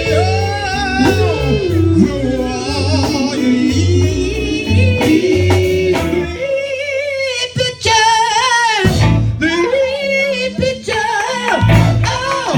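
Live gospel music: a wavering, melismatic solo voice singing over a band with a steady bass beat, which drops out briefly partway through.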